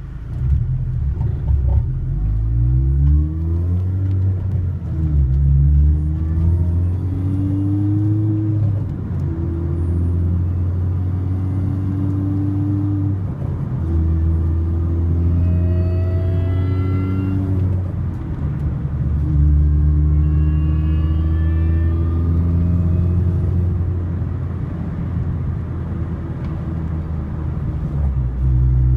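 A Mini Cooper S R53's supercharged 1.6-litre four-cylinder, through an aftermarket eBay exhaust, running with a steady low drone while cruising. Its pitch climbs over the first few seconds and then holds, with a couple of brief dips. A faint higher whine climbs twice in the middle.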